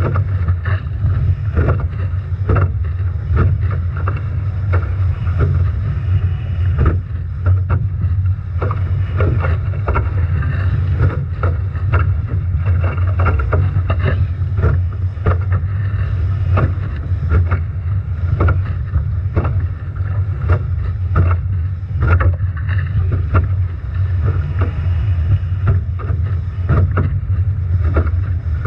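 Heavy wind buffeting the microphone as a Nacra 17 foiling catamaran sails through strong wind and waves, with frequent irregular splashes and slaps of water and spray over the boat.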